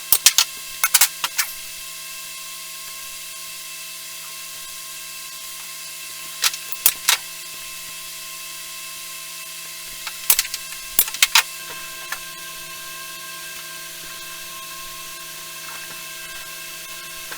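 Sharp knocks and clicks of workshop tool work, in groups: several in the first second or so, two about six and a half seconds in, and a run around ten to twelve seconds in. They sit over a steady hum.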